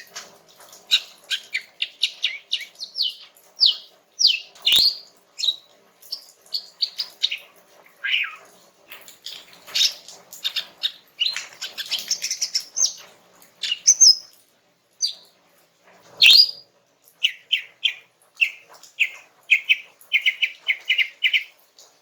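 Female green leafbird (cucak ijo) singing in a relaxed flow of varied chirps and short whistled notes. Near the end it breaks into a quick run of repeated chirps, about four or five a second. Two sharp knocks sound, about 5 s and 16 s in.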